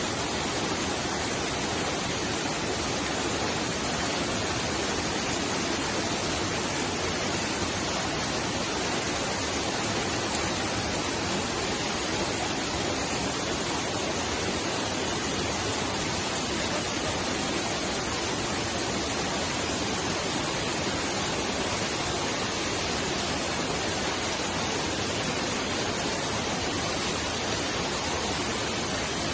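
Mountain stream's water rushing steadily, a constant even hiss with no breaks or separate events.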